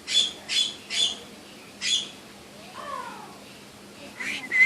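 Parrot calling: four short, harsh squawks in quick succession, a softer warbling call about three seconds in, and a louder whistled call near the end.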